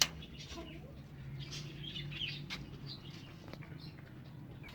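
Chicks peeping faintly in short scattered chirps over a steady low hum, with one sharp click right at the start.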